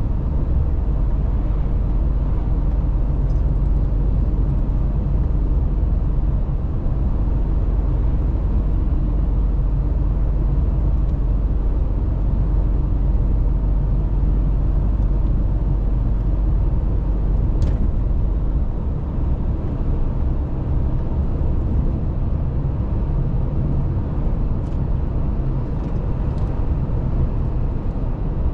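Mercedes-Benz Actros truck's diesel engine running at a steady cruise with road noise while driving; the deep engine drone eases a little about two-thirds of the way through.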